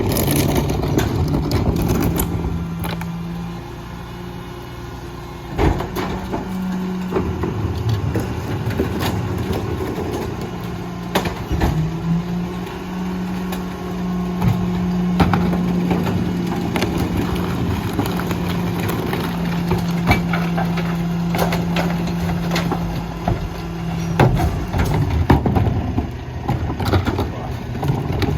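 Mack LR garbage truck's diesel engine running while the McNeilus rear-loader packer compacts refuse, with a steady raised tone held for about twelve seconds in the middle and scattered clanks and knocks.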